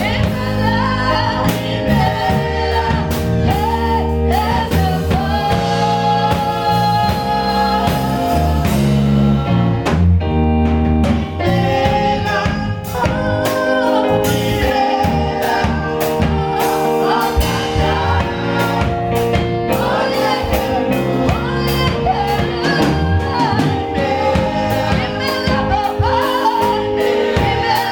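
Gospel music: a group of singers with a band, a steady bass line and drum beat under the sung melody.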